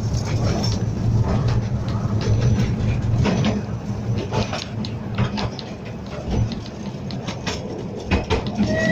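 Miniature steam train running along the line, heard from on board: a steady rumble with irregular clicks and knocks from the wheels and carriages, easing a little midway. A steady whistle note starts right at the end.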